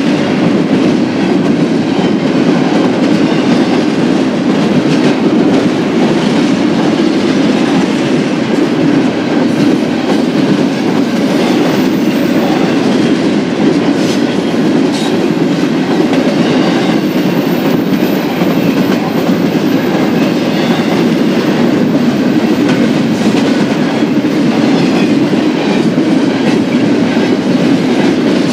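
BNSF intermodal stack train's cars rolling past at speed: a steady, unbroken noise of steel wheels running on the rails, with no horn.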